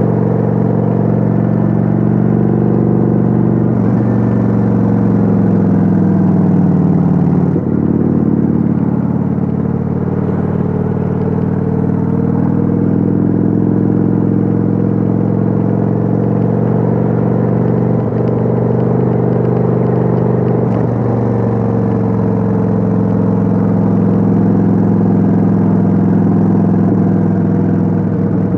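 Kawasaki Vulcan 900's V-twin engine running while cruising, heard from on board, its note rising and falling slowly with the throttle. There is a brief dip in the sound about seven and a half seconds in.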